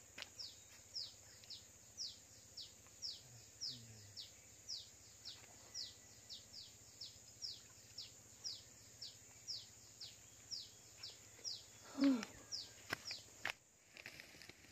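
A bird repeating a short, downward-slurred high note about twice a second, over a steady high insect drone. A brief louder low sound breaks in about twelve seconds in.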